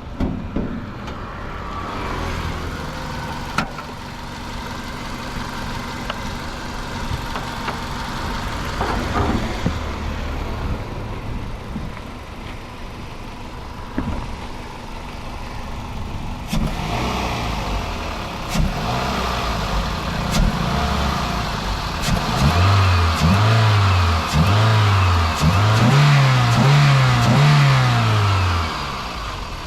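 2004 Toyota Corolla engine idling, then revved several times in quick succession near the end, each rev rising and falling in pitch.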